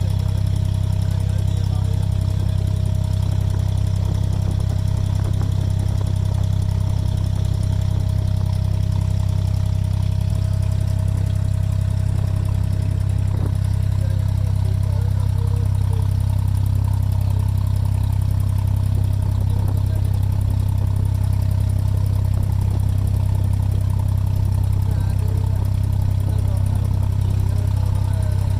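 Passenger boat's engine running steadily with a deep, even hum, heard on board.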